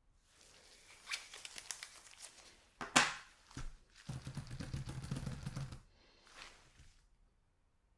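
Chocolate packaging being handled and opened: crinkling and tearing, with a sharp snap about three seconds in.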